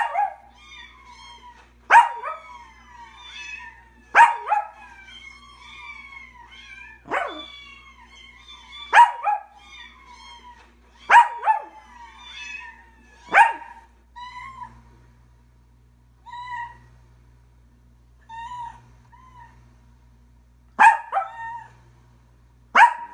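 A pet animal calling over and over: a loud, sharp cry roughly every two seconds, with quick strings of softer, high chirping calls in between that thin out about halfway through.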